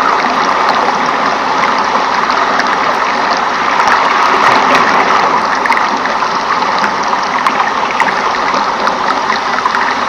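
Steady rush of flowing water, like a forest stream, with scattered small drips and ticks over it.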